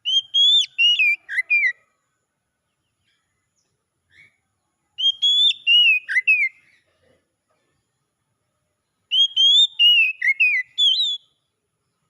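Oriental magpie-robin (kacer) singing: three phrases of clear, gliding whistled notes, each about two seconds long, near the start, at about five seconds and at about nine seconds.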